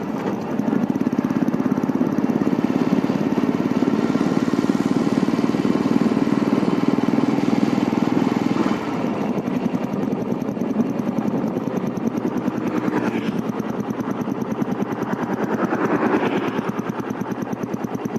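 Royal Enfield Classic 350's single-cylinder engine running through an aftermarket Globe Wild Boar silencer: a loud, bassy exhaust thump in a fast, even beat. About nine seconds in, the beat drops in level and fades somewhat, then swells again briefly near the end.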